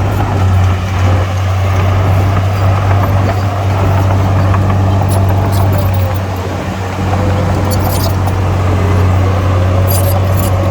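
Heavy diesel engine of earthmoving equipment running steadily, with a fainter wavering whine above it and a few light high clicks about halfway through and near the end.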